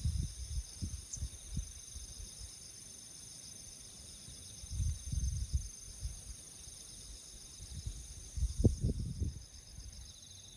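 Crickets chirring steadily in several high, finely pulsing bands, with scattered low thumps and rumbles near the start, midway and around the last second and a half.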